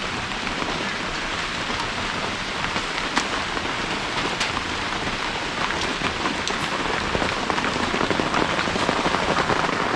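Torrential rain falling steadily, a dense even hiss with scattered sharp drop impacts, growing slightly louder near the end.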